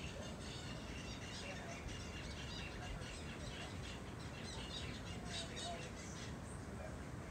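Wild birds chirping and twittering in quick, overlapping calls over a steady low background noise, thinning out near the end.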